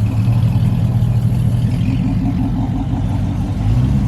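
Car engine idling with a steady, loud low rumble, swelling a little near the end.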